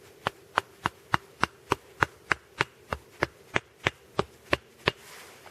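Wooden stakes being hammered into the ground: about sixteen sharp, even blows at roughly three a second, stopping about five seconds in.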